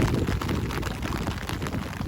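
Steady rain falling, with a dense patter of individual drops striking close by over a low rumble.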